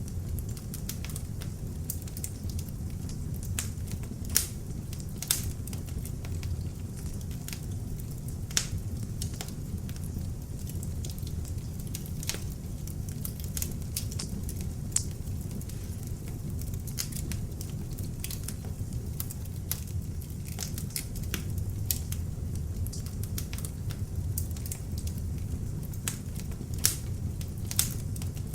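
Beech log fire burning in an open fireplace: a steady low rumble of flames with constant irregular crackling and occasional louder pops from the wood.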